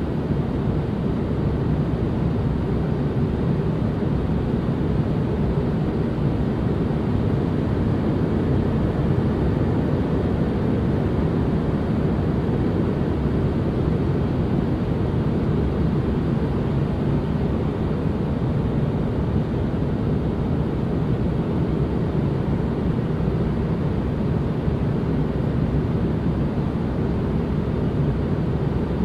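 Steady, unchanging white-noise ambience: an even rushing noise weighted toward the low end, a deep rumble with little treble.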